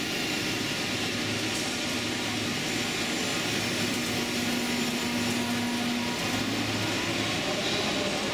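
A Deutsche Bahn ICE high-speed train standing at the platform, its fans and on-board equipment running with a steady hum. A higher steady tone comes in about two seconds in and stops about six seconds in.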